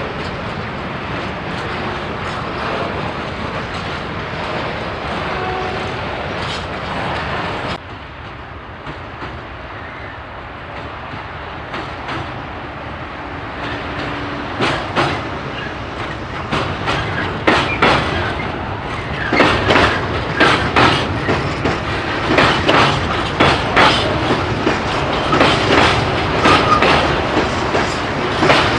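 Freight train rolling past, its wagon wheels clattering over the rail joints. A steady rumble drops off suddenly about eight seconds in, then the clicks return and build into a loud, dense clatter over the second half.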